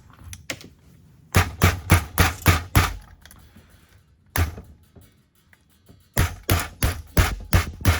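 Hammer blows on an engine part: a quick run of about six strikes, a single strike, then another quick run of strikes, each sharp and ringing briefly.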